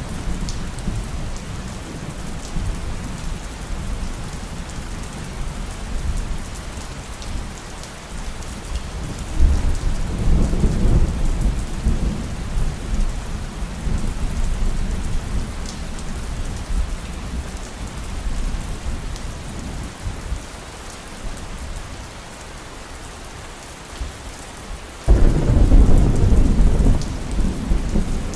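Heavy rain falling steadily, with thunder rumbling low several times; a loud thunderclap breaks in suddenly near the end and rolls on.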